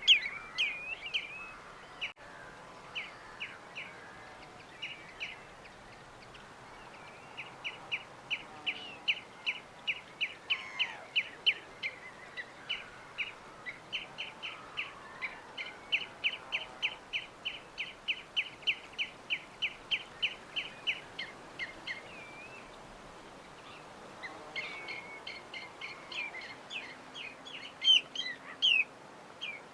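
Birds chirping, with a long run of quick, evenly repeated chirps at about three a second through the middle, and scattered calls at the start and near the end.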